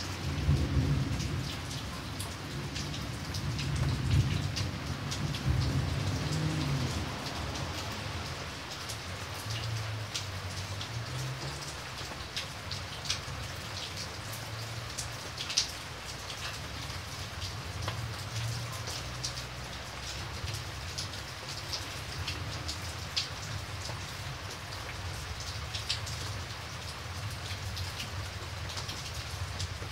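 Steady rain falling, with scattered louder individual drop splashes. A low rumble underlies the first several seconds.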